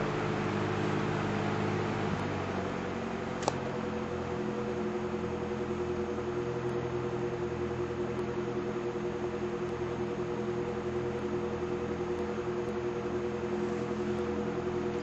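1935 Westinghouse electric table fan running with a steady hum of motor and blades; the hum's tone shifts slightly about two seconds in, and a single sharp click comes about three and a half seconds in.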